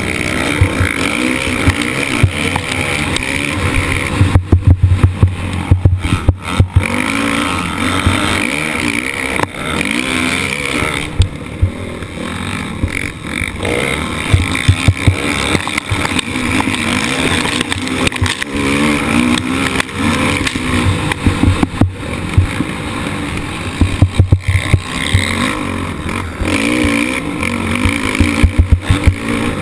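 Motocross bike's engine racing, revving up and down over and over as the rider works the throttle, heard close up from an onboard camera. Clusters of sharp jolts and thuds from bumps and landings break in several times, loudest about four to seven seconds in and again near the end.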